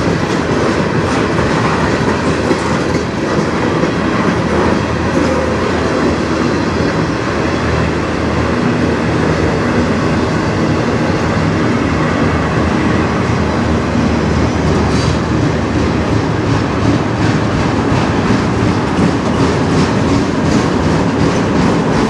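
Freight train's tank cars and autorack cars rolling past close by: a steady rumble of steel wheels on rail, with the clicks of wheels over rail joints growing plainer near the end.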